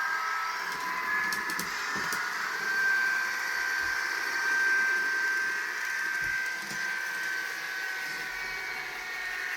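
N gauge Graham Farish Class 158 model unit running on the layout: a steady, thin mechanical whine whose tones drift slowly in pitch, with a few faint clicks about a second in.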